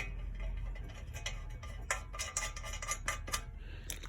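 Irregular light metallic clicks and clinks of hand tools and bolts being worked on an engine during oil pan fitting.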